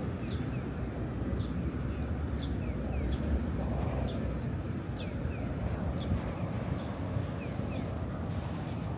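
Electronic bird-chirp guidance signal for visually impaired pedestrians, repeating about once a second as a higher chirp alternating with a lower double chirp, over a steady hum of city traffic and crowd.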